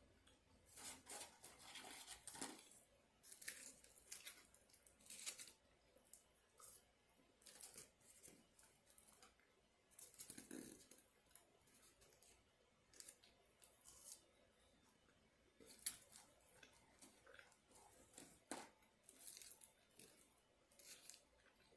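Faint rustling and tearing of paper food wrapping, in short irregular bursts with pauses, and one sharper click about three-quarters of the way through.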